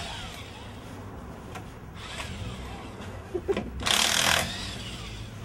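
A power tool run in one short burst about four seconds in, preceded by a few light clicks, over a steady low hum.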